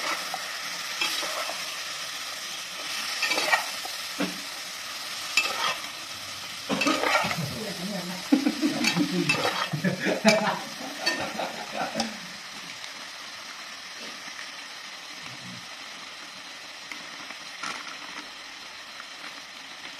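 Duck pieces sizzling as they stir-fry in an aluminium pot, with a metal spatula scraping and knocking against the pot. The stirring strokes are busiest in roughly the first twelve seconds; after that only a steady, quieter sizzle goes on.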